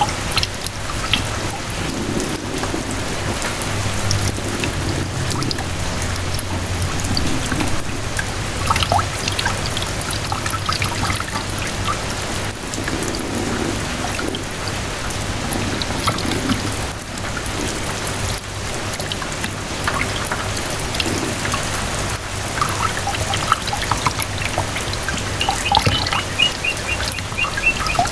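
Steady rain falling, with many close drops pattering and water trickling and dripping.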